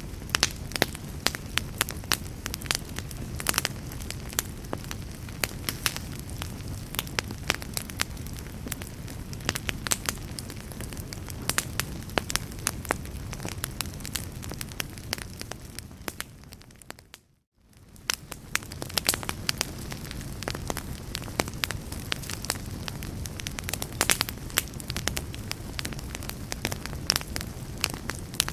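Wood fire crackling in a fireplace: a steady low rumble with frequent sharp pops and snaps. About two-thirds of the way through, the sound fades out almost to silence for a moment, then swells back.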